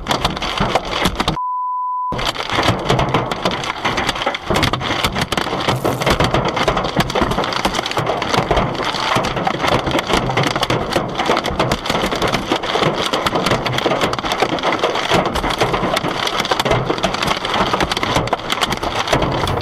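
Hail pelting cars: a dense, unbroken clatter of hits. About a second and a half in, a short steady beep briefly replaces it.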